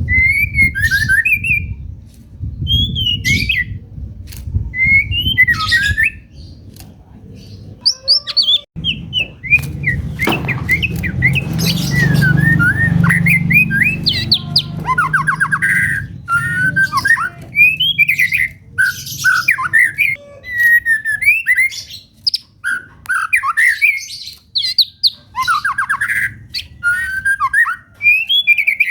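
White-rumped shama singing: a varied, continuous run of whistled phrases and quick trills that glide up and down, over a low background rumble.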